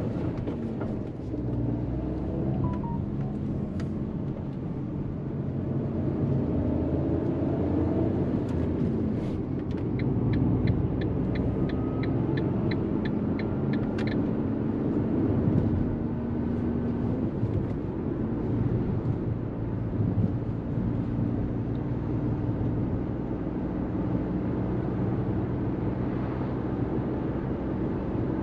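Fiat Panda 1.0 BSG mild hybrid's naturally aspirated three-cylinder petrol engine running on the move, heard from inside the cabin over tyre and road rumble, its pitch rising and falling with the revs. Between about ten and fourteen seconds in, a run of even ticks, about three a second, from the turn-signal indicator.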